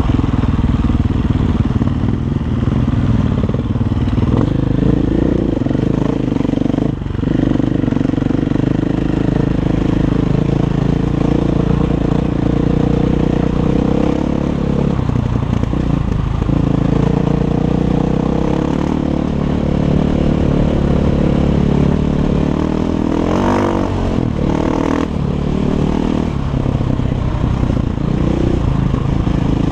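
Single-cylinder Six Days 500 enduro motorcycle engine running through an Akrapovic exhaust, its note rising and falling with the throttle several times.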